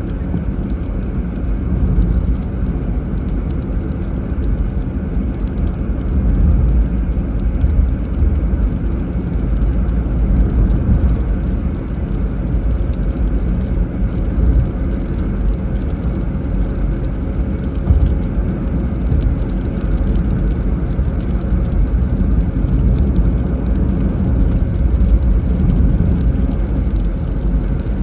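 A car driving on a wet road in the rain: a steady low rumble of engine and tyres with an even hiss of rain and tyre spray.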